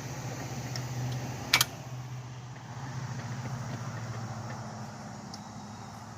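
A vehicle engine idling steadily, with one sharp click about one and a half seconds in.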